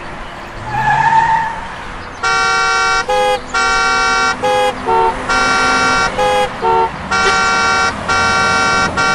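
A brief rising squeal about a second in, then a musical vehicle horn playing a tune: a string of long and short honks at changing pitches.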